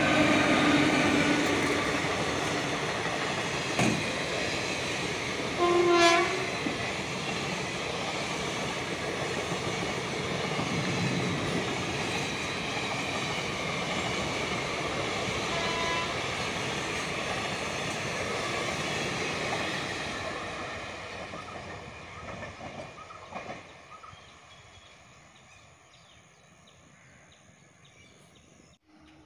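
Electric-hauled passenger train passing close by at speed: a loud rumble of wheels on rail that fades away as the last coaches go by, with a short horn blast about six seconds in.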